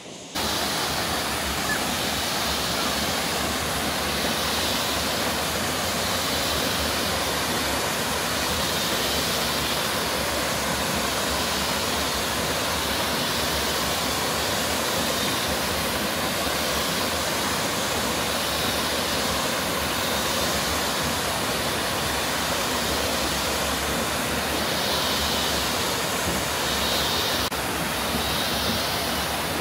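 Steady rushing of a waterfall, an even noise without breaks that cuts in suddenly just after the start.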